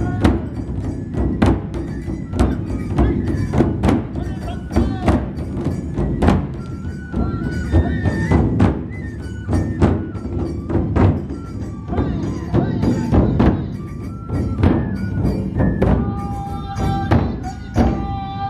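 Matsue dō festival drums beaten in a quick, steady procession rhythm, with a high bamboo flute playing a stepping melody over them.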